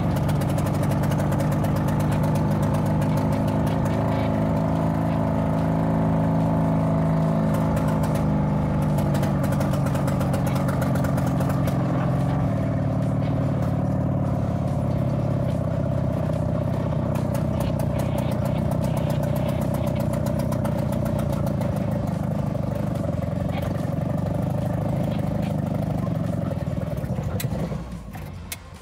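Lada four-cylinder engine converted to two-stroke, running at low revs and only just keeping going, with a steady engine hum that drops away sharply near the end. The builders blame the rough running on cylinders 1 and 4 hardly firing, because the crankcase cannot be sealed off for each cylinder.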